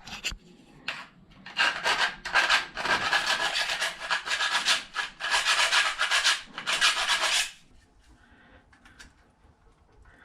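A hand saw cutting a length of Wiremold wiring channel to size: a series of back-and-forth rasping strokes that stop about two-thirds of the way in, leaving a few faint ticks.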